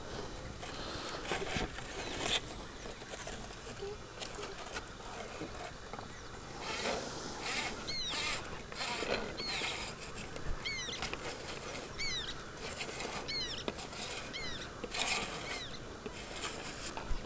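Irregular rustling and patter, with a bird repeating short chirps that sweep downward in pitch, coming in about halfway through and continuing to the end.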